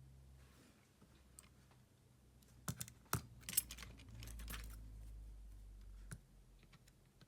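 Small sharp clicks and taps of tools and handling on a smartphone's parts during disassembly, a cluster of them in the middle, over a low rumble of handling.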